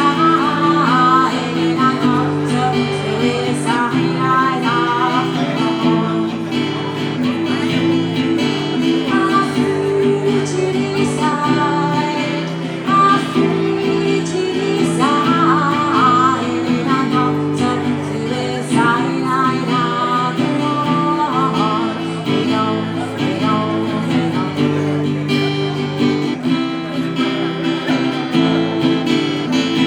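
Acoustic guitar strumming steady chords, with a wavering melody line above it.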